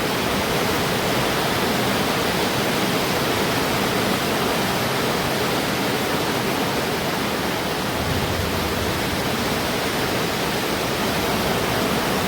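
Steady downpour of rain, a dense even hiss with no breaks.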